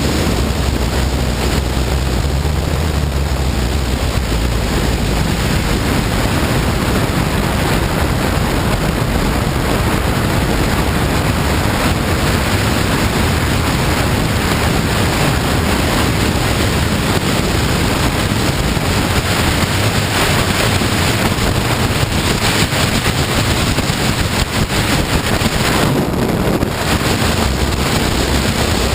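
Heavy wind rushing over the microphone of a moving Honda CBR954RR sport bike, with the motorcycle's engine running underneath.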